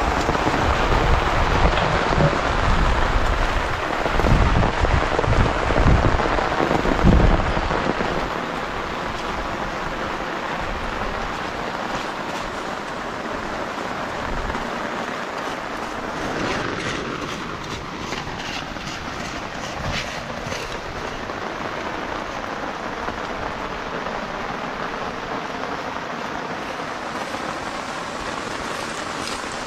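Rain falling steadily, with deep low rumbles for about the first eight seconds, then a steady hiss of rain with a few sharp drip ticks near the middle.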